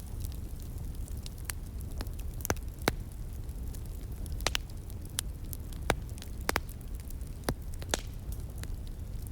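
A wood fire burning and crackling, with irregular sharp snaps and pops, the loudest about three and six seconds in, over a steady low rumble.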